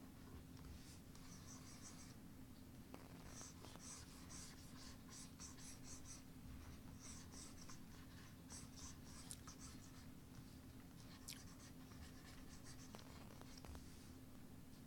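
Faint, quick scratching strokes of a drawing tool on a surface, coming in short runs of several strokes with brief pauses, over a low steady hum.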